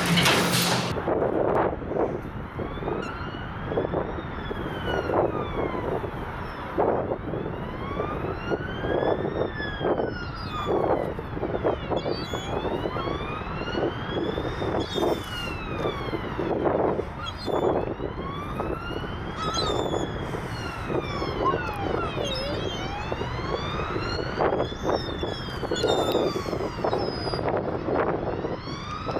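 Two emergency-vehicle sirens wailing out of step, each rising and falling slowly every few seconds, so their sweeps keep crossing, over rough street background noise.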